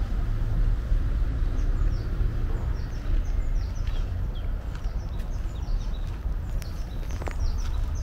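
Small songbirds chirping, many short quick descending notes that grow busier in the second half, over a steady low rumble.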